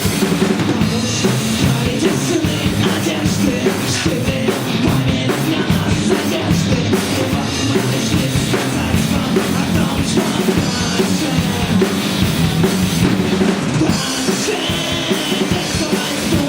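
A rock band playing live at full, even loudness, with the drum kit prominent.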